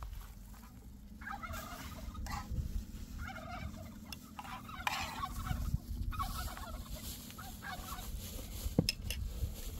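Farm poultry calling in three bursts of rapid chattering calls, with a sharp click near the end.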